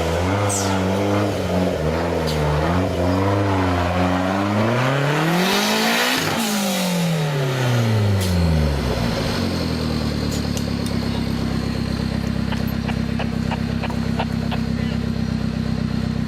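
Off-road 4x4 vehicle engine revving up and down, swelling as it comes close about six seconds in and falling away after, then settling into a steady lower drone with faint ticks.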